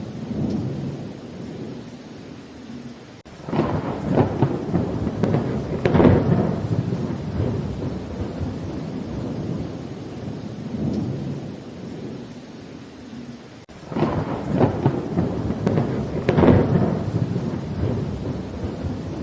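Steady rain with thunder: two loud crackling thunder rolls, one beginning about three seconds in and a matching one about fourteen seconds in, each lasting several seconds over the rain.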